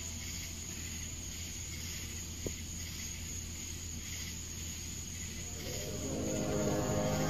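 Steady outdoor background of insect chirring over a low hum, with one short click. Near the end a loud, drawn-out droning sound with several pitches at once fades in: the kind of unexplained "strange sound in the sky" these recordings present.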